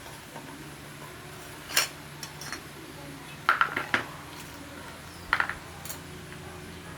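Light metallic clinks of metal parts being handled and set down: one about two seconds in, a quick cluster of several near the middle, and a couple more about a second and a half later, over a steady low hum.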